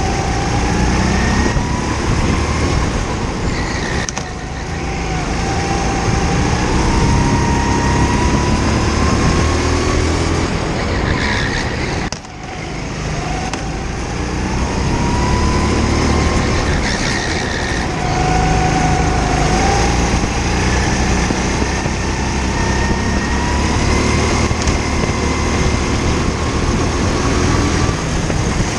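Indoor go-kart engine heard from on board, its pitch climbing along each straight and falling back for the corners, lap after lap. Loudness drops briefly about twelve seconds in.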